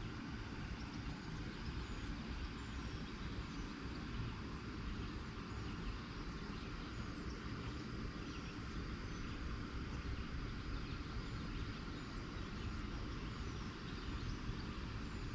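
Steady low rumble with small birds chirping over it in short, repeated high chirps.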